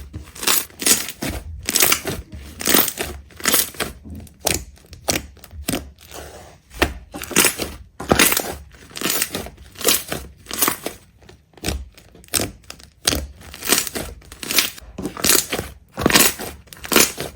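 Repeated short crunching sounds, roughly two to three a second and uneven, as something brittle or crisp is crushed or cut, with a brief lull about six seconds in.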